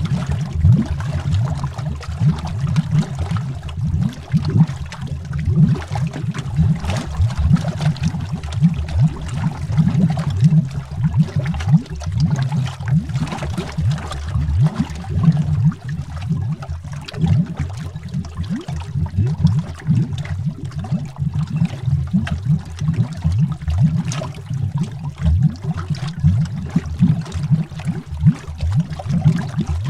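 Continuous underwater bubbling: a dense, low stream of bubbles gurgling without pause.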